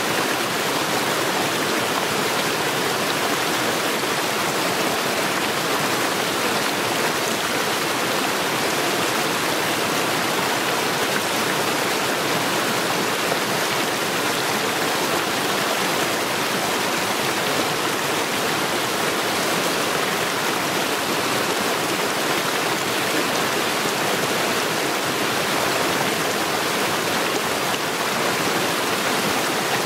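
Mountain stream rushing over stones in a steady, unbroken flow.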